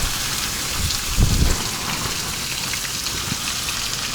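Mashed potatoes sizzling in a hot frying pan, a steady crackling hiss. Wind buffets the microphone in a low rumble about a second in.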